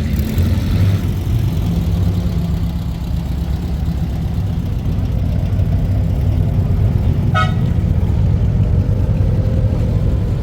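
Low, steady car-engine rumble, with one short horn toot about seven seconds in.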